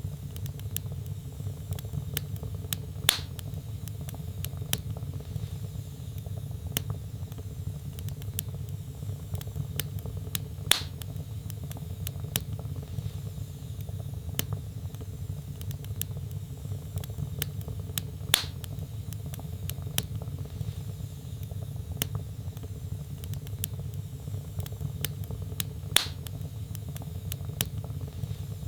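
Wood fire burning in a fireplace: a steady low rumble of flame under constant light crackling. Four louder pops come at even gaps of about seven to eight seconds.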